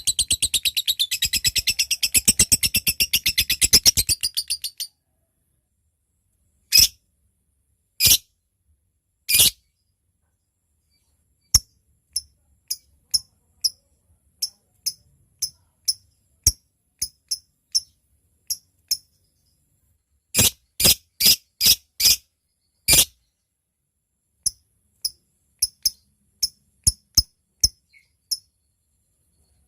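Lovebird calling: a long, rapid, high-pitched chattering trill (ngekek) that stops sharply about five seconds in, then single sharp ticking chirps (ngetik), at first a second or more apart, then quicker, with a fast run about two-thirds through.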